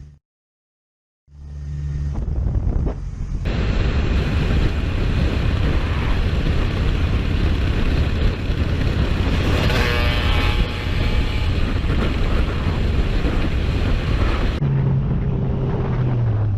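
A road vehicle running on the move, heard from on board as a loud steady rush of engine and road noise. It is broken by about a second of silence just after the start, and the sound changes abruptly twice where clips are cut together.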